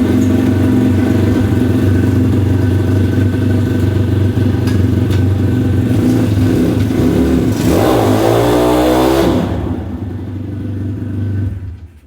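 Kayo 160 pit bike's single-cylinder four-stroke engine running steadily at idle. About eight seconds in it is revved up and back down, then it runs lower and falls away just before the end.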